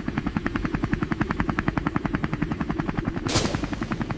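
Helicopter rotor beating in a fast, even rhythm, about ten blade chops a second, with a brief whoosh a little after three seconds in.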